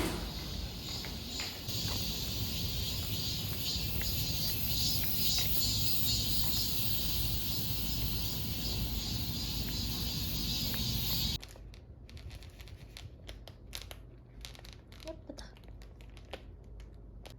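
A steady ambient hiss with a low rumble cuts off abruptly about eleven seconds in. After it comes quiet, with irregular crinkling and rustling, like paper or plastic wrapping being handled.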